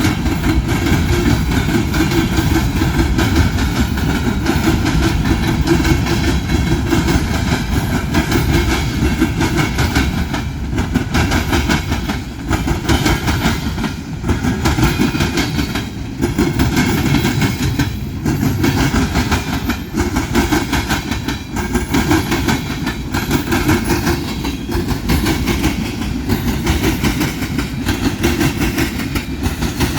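Train cars rolling past, with a steady, loud clatter of wheels over the rails that dips briefly every few seconds.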